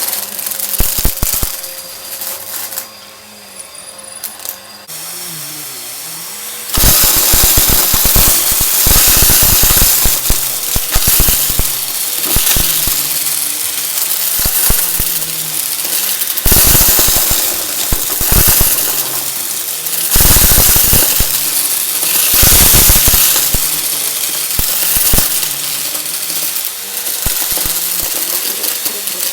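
Vacuum cleaner running with a steady motor hum while sucking up confetti and crunchy debris. A few scattered clicks come first; about a quarter of the way in a dense, loud crackling crunch sets in and keeps going, with brief lulls.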